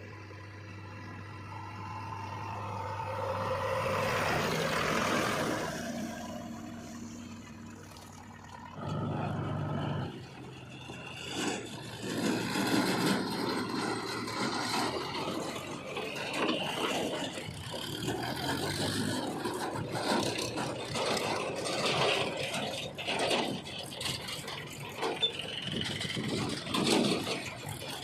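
JCB 3DX backhoe loader at work, its diesel engine running with the clatter and scrape of the bucket digging and loading mud. The sound swells once early on, then from about ten seconds in turns to an uneven run of scraping and rattling.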